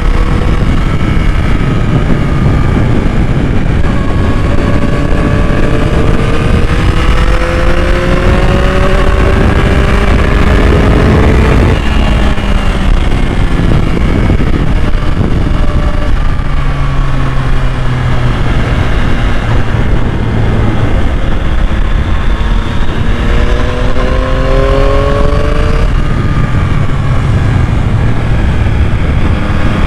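2021 Yamaha MT-09's inline three-cylinder engine pulling under throttle, its note climbing for several seconds, dropping suddenly about twelve seconds in, then climbing again near the end, over a heavy low rumble of wind and road noise.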